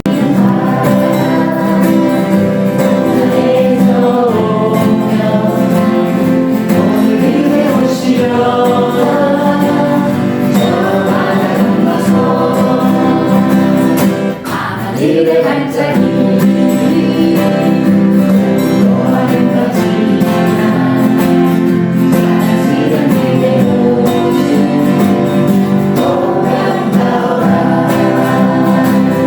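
A song: singing voices over steady instrumental accompaniment.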